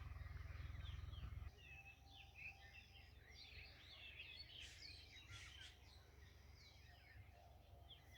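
Faint chorus of small birds chirping, many short rising and falling calls overlapping, busiest in the middle. A low hum underneath cuts off suddenly about a second and a half in.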